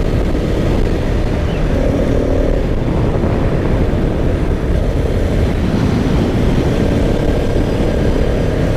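Steady wind rush buffeting the microphone of a moving motorcycle, with the bike's engine running underneath.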